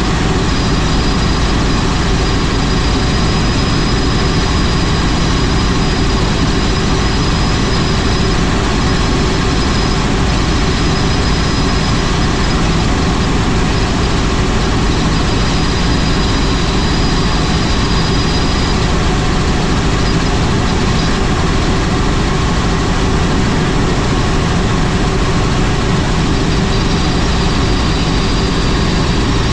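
Helicopter running steadily in flight: constant engine and rotor noise with a thin high whine over it.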